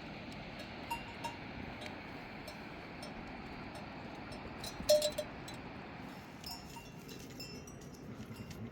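Sheep bells clinking now and then over a steady background hiss, with a louder clang about five seconds in.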